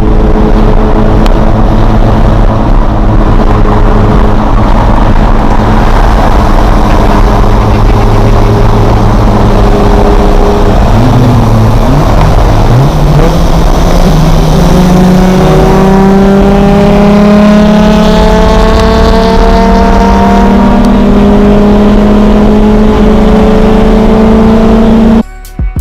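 Car engine running loudly at a steady pitch, then changing note and climbing slowly in pitch as the car accelerates. It cuts off suddenly near the end.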